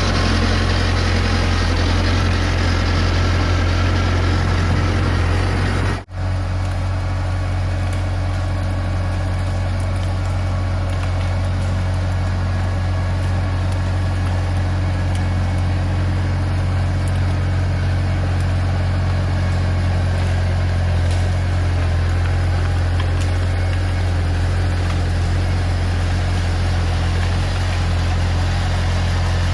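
Bobcat T250 skid-steer's diesel engine running steadily under throttle as the machine works, a constant low drone with a brief break about six seconds in.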